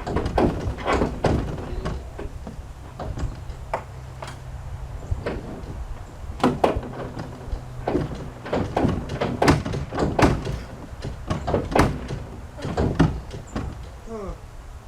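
Repeated metal thunks and clanks from the crushed rear body section of a 1991 Ford Explorer as it is rocked and pulled by hand, still held by its mounting bolts. A low steady hum runs underneath, and there is a short squeak near the end.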